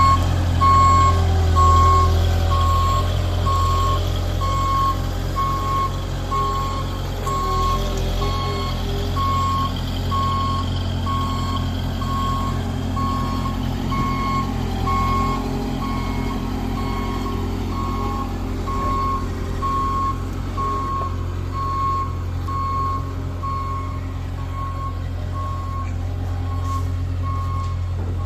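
Reversing alarm beeping steadily at an even pace over the low drone of a diesel engine, as a JCB 155 skid steer loader backs off during unloading.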